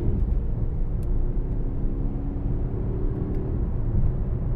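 The 4.0-litre V8 biturbo of a Mercedes-AMG GLC63 S running at a steady cruise, heard from inside the cabin as a low, even rumble together with road noise.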